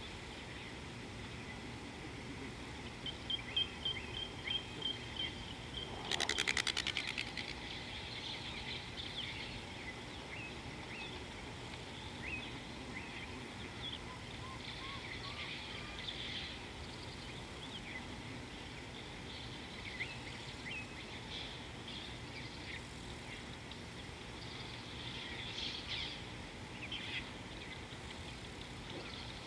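Several wild birds chirping and calling over steady outdoor background noise. A run of quick repeated notes comes about three seconds in. A loud, rapid rattle follows about six seconds in.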